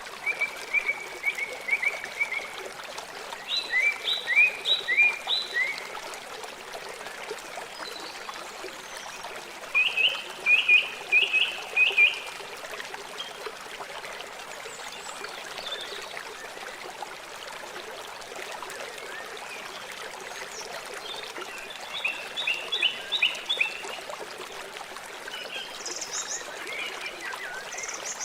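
River water flowing steadily. Several times it is joined by short series of five or six quick, high chirping calls.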